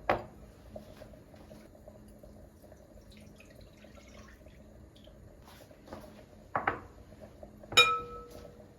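Dishes handled in a kitchen: a sharp knock at the start, two more knocks later, then glassware clinking near the end with a short bright ring.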